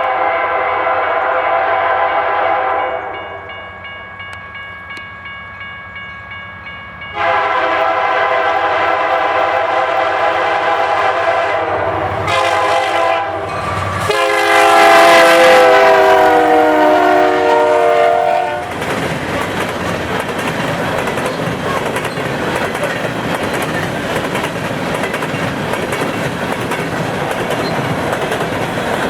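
Locomotive air horn on the lead Canadian National unit blowing the grade-crossing pattern of two long blasts, a short one and a long one, the last a little lower in pitch as the locomotive comes by. It then gives way to the loud steady rumble and clickety-clack of the empty coal train's locomotives and gondolas rolling past.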